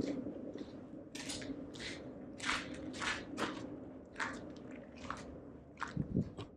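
Footsteps crunching over loose debris and grit, about two steps a second.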